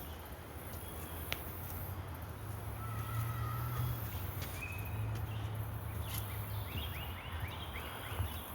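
Outdoor ambience: a steady low wind rumble on the microphone, with birds calling over it, a few thin whistles in the middle and a quick run of repeated chirps near the end.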